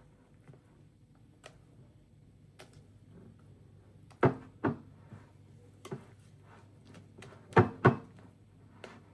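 A few short knocks and thuds in a small room: a pair about four seconds in, a lighter one about six seconds in, and the loudest pair close together near the end.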